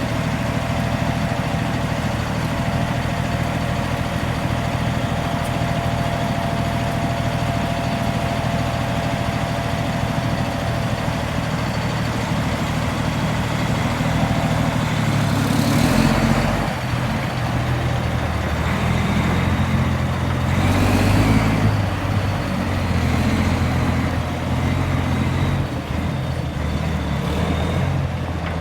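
Grapple truck's engine running steadily, its note and load shifting several times in the second half, with two short bursts of hissing noise, one about 16 seconds in and one about 21 seconds in.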